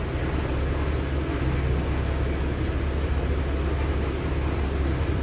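Cabin of a LiAZ-6213.65 articulated city bus under way: a steady low engine hum with road noise, and a few faint short high clicks or rattles.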